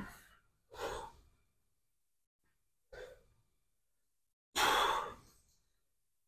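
A man breathing hard from exertion: four heavy, breathy exhalations with pauses between them. The last, about four and a half seconds in, is the longest and loudest.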